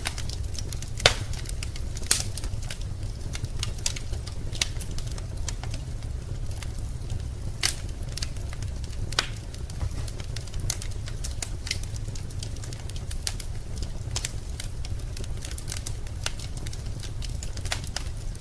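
Wood fire in a fireplace crackling, with irregular sharp pops, the loudest about a second in, over a steady low rumble.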